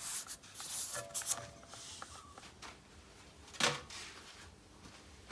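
Foam being handled and fitted onto the hydraulic pump stand's base: rustling and scraping, busiest in the first second and a half, with one sharper scrape a little past halfway.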